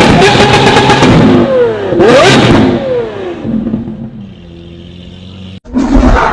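Lamborghini Aventador's V12 revving through its exhaust: held high at first, then falling, a quick blip about two seconds in, and the revs dropping back to idle. Near the end the sound cuts off abruptly and another loud, steady high rev comes in.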